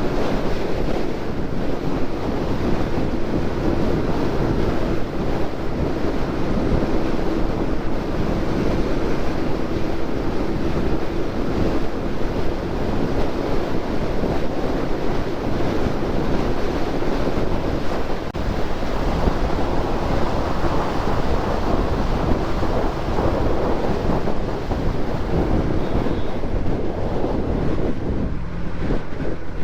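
Heavy wind noise buffeting the camera microphone on a motorcycle riding at about 85 on the speedometer, with a faint steady engine drone underneath.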